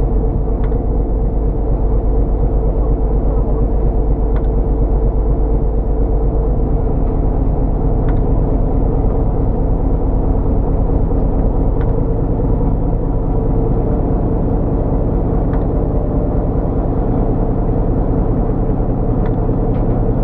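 Fishing boat's engine running steadily, its note shifting slightly about six seconds in, with a faint click about every four seconds.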